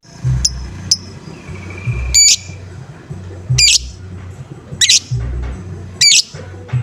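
Lovebird giving harsh, repeated 'ngoek-ngoek' squawking calls, six sharp calls about a second or so apart.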